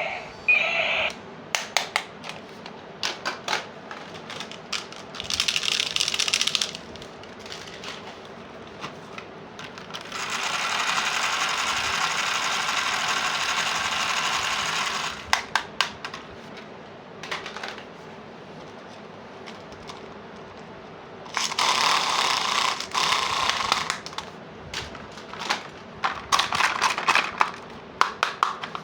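Plastic toy parts being handled, with many sharp clicks and taps. There are stretches of rustling packaging, the longest lasting about five seconds in the middle.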